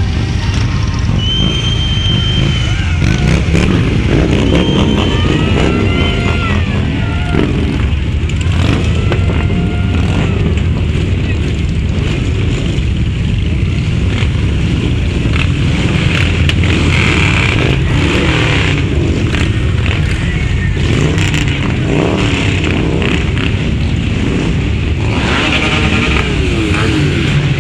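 Many Harley-Davidson V-twin motorcycle engines rumbling together, with some revving, mixed with voices. Several gliding pitched calls sound in the first ten seconds or so.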